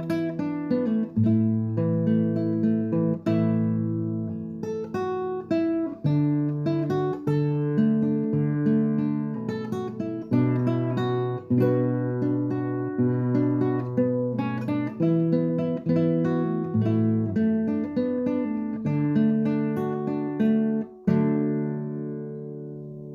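Acoustic guitar music: chords plucked and strummed in a steady pattern, ending on a final strummed chord about 21 seconds in that rings on and fades away.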